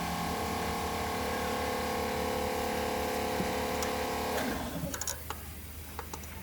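A steady machine whine over a low hum. The whine cuts off about four and a half seconds in, leaving the hum and a few light clicks.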